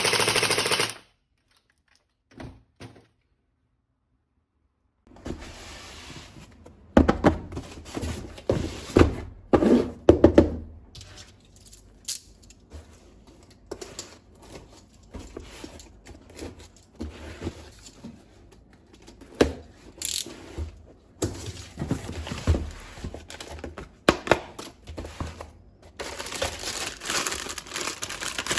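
Hands handling a plastic toy gun and its packaging: irregular plastic knocks, clicks and thunks mixed with crinkling. This starts about five seconds in, after a brief silence. At the very start, the tail of a loud continuous burst from the toy gun's firing sound cuts off.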